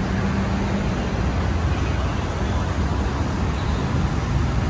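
Steady road traffic noise, a continuous low rumble of passing vehicles with no single event standing out.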